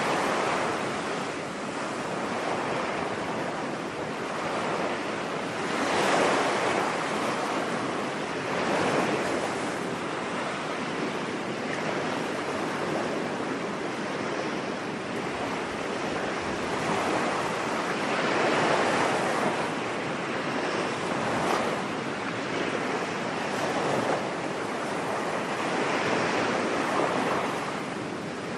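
Ocean surf on a beach: waves breaking and washing in, the rush of water swelling and easing every few seconds.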